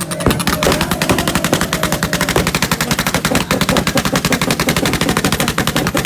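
Car exhaust popping in a rapid, even string of cracks over the engine's steady tone, typical of an engine held on its rev limiter.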